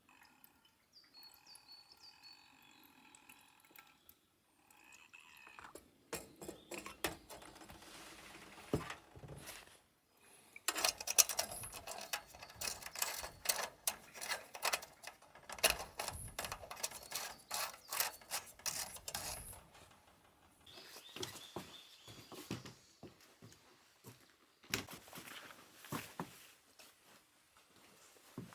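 Bird calls, then long runs of quick clattering knocks and rustling from things being handled, busiest in the middle of the stretch.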